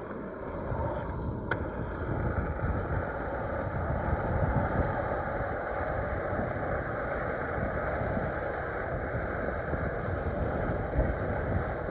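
Skateboard wheels rolling over concrete, a steady rumble that swells a little about two seconds in.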